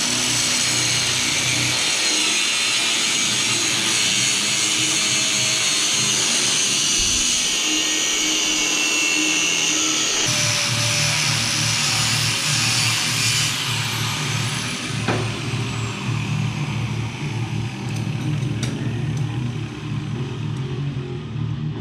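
Angle grinder spinning up and grinding steel A-arm pipe, with a loud, steady high-pitched whine, then winding down, its pitch falling slowly over several seconds. Rock music with a steady low beat comes in about halfway.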